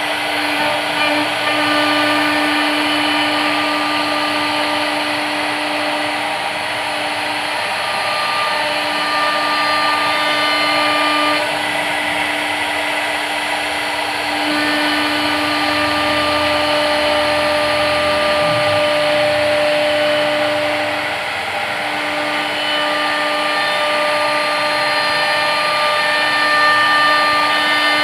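CNC machine running steadily: a motor whine made of several steady tones that break off and come back every few seconds, over a constant noise.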